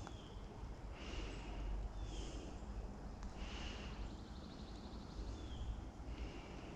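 A person's soft breathing close to the microphone, a hissy breath about every second, with a faint quick ticking in the middle.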